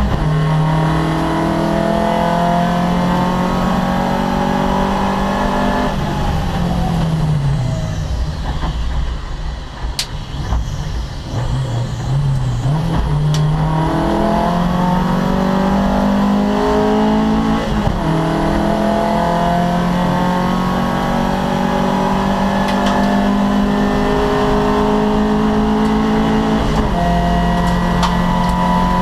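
Opel Kadett C race car's four-cylinder engine at racing speed, pulling hard and climbing through the gears. About six seconds in the revs fall away as the driver lifts off and brakes, with short blips on the downshifts. From about thirteen seconds it accelerates again, rising through several upshifts.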